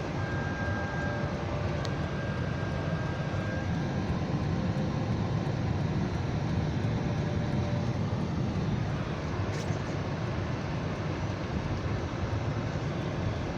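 Steady low rumble of a car heard from inside the cabin, engine and road noise with no sharp events.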